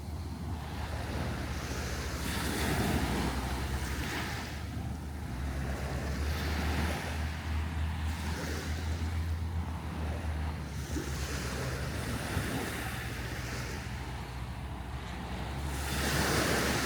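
Surf washing onto the beach in waves that swell and fade every few seconds, with wind buffeting the microphone in a low rumble.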